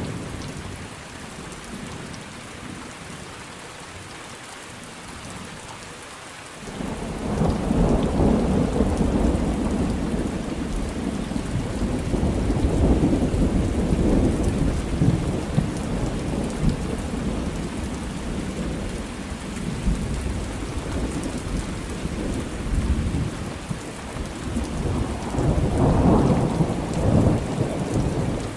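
Thunderstorm: steady rain, then a long roll of thunder that breaks in suddenly about six seconds in and rumbles on for some twenty seconds, swelling again near the end.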